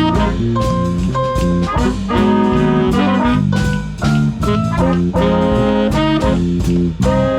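Swing big band playing: brass section sounding held chords over bass and drums with a steady beat.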